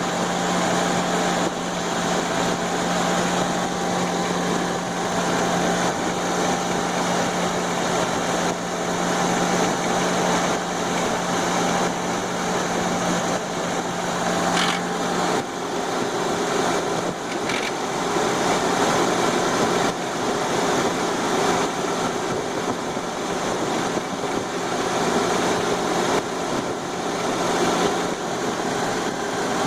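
Suzuki Grand Vitara engine running steadily with a noise from the top of the engine that persists even after the gears were replaced; its steady hum shifts slightly about halfway through.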